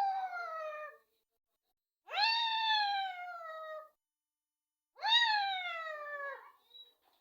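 Indian ringneck parakeet giving three long drawn-out calls, each rising briefly and then sliding down in pitch, about every two and a half seconds; the first is already under way.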